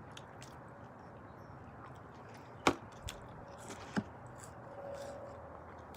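Quiet room with two short sharp clicks or taps, about a second and a half apart.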